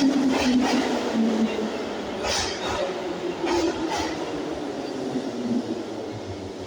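Inside an 81-502 metro train car: a humming tone falls in pitch over the first couple of seconds, with a few short hisses around the middle, as the overall sound slowly fades.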